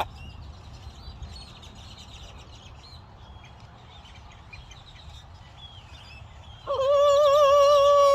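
Faint chirping of small wild birds, then about seven seconds in a pet parrot sings one long, loud held note with a slight wobble in pitch.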